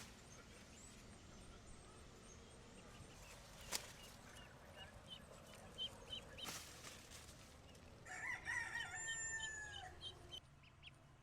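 A rooster crows once, a single call of about two seconds starting about eight seconds in and tailing off downward at the end. Faint short high chirps run through the second half, and there are a couple of sharp clicks before the crow.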